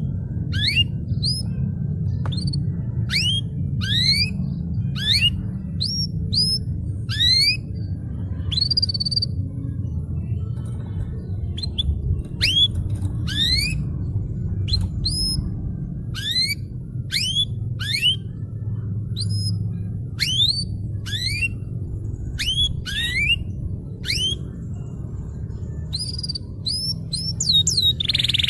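Domestic canary singing a run of clear rising whistled notes, about two a second, with a couple of brief pauses, over a steady low background rumble.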